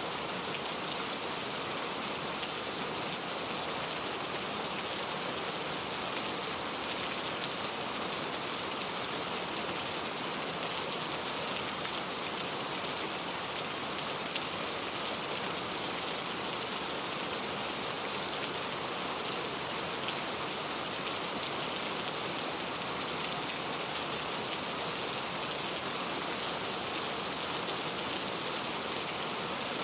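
Steady rain falling, a dense patter of drops on a surface.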